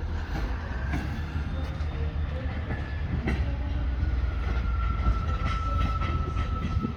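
A train running slowly on the tracks, a steady low rumble with faint wheel clicks, joined about two-thirds of the way through by a steady high whine.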